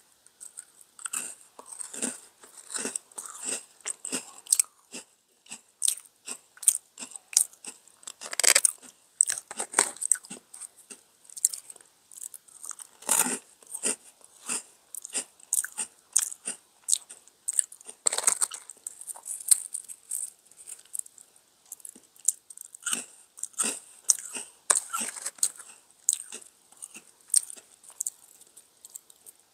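Close-miked crunching and chewing of a DunkAroos cookie dipped in chocolate frosting. Crisp crunches come in a quick uneven run, with a few louder bites among them.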